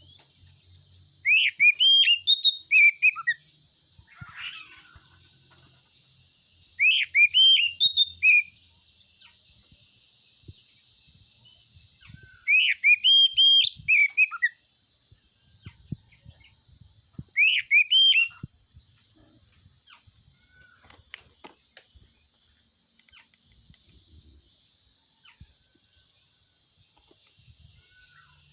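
Oriental magpie-robin (kacer) singing: four loud phrases of quick, rising and falling whistled notes, spaced a few seconds apart and stopping after about eighteen seconds. A steady high hiss of insects runs underneath.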